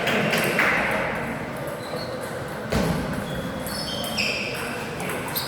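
Table tennis hall sounds: a few sharp knocks, the loudest about three seconds in, and short high squeaks in the second half, with faint voices and hall echo.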